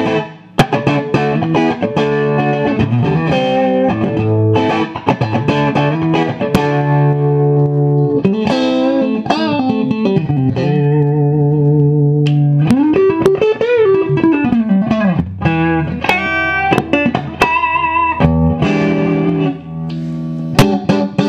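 1991 Fender '57 reissue Stratocaster on its middle pickup, played straight into a Marshall Plexi amplifier: strummed chords and single-note lines, with a wide string bend rising and falling a little past halfway.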